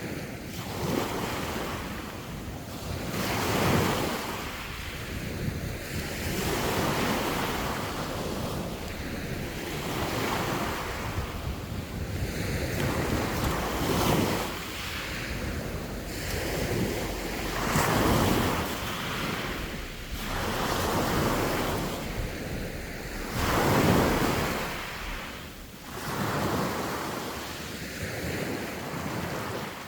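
Sea waves breaking and washing ashore, the surf swelling and falling every few seconds with the biggest surges near 4, 14, 18 and 24 seconds, with wind rumbling on the microphone.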